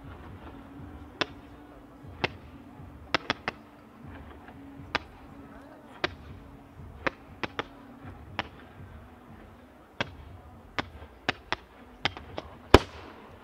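Fireworks going off as a string of sharp, separate bangs at irregular intervals, often one or two a second. The loudest bang comes near the end.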